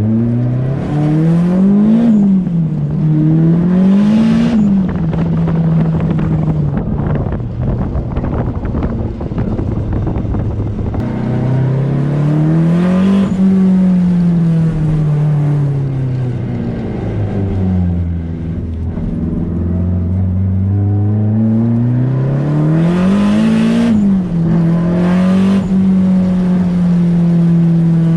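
Nissan Sileighty's engine pulling up through the revs and dropping back several times while driving, with a long steady stretch and a spell of dense road noise.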